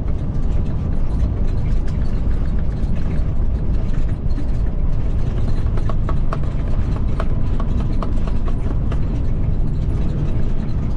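Freightliner FLD120's Cat 3406E diesel engine and road noise heard inside the cab while driving, a steady low drone. A few light clicks or rattles come through over the middle of the stretch.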